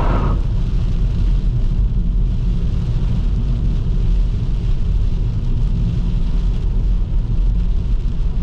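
Car driving on a wet road: steady low engine and road rumble with a fainter hiss of tyres.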